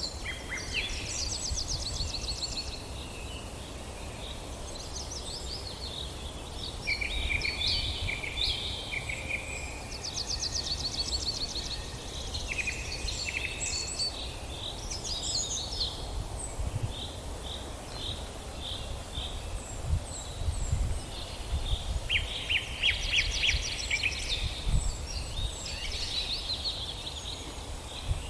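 Several songbirds singing in a forest, with overlapping phrases of rapid trills and repeated chirps throughout, over a steady low rumble.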